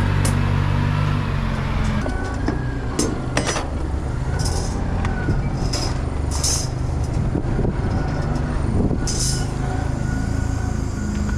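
A heavy vehicle's engine running steadily, with several short hissing bursts scattered through.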